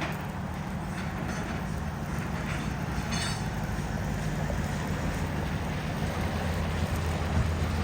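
Steady low rumble of an idling vehicle engine, with a few faint brief clinks about a second and three seconds in.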